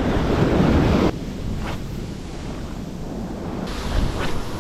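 Ocean surf washing on a beach, with wind buffeting the microphone. The wash is loudest for about the first second, then drops to a steadier, lower rush.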